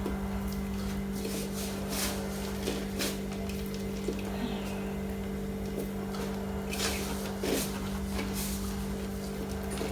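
A steady low hum under scattered light knocks and clatters, several short sharp ones about two, three, seven and eight seconds in.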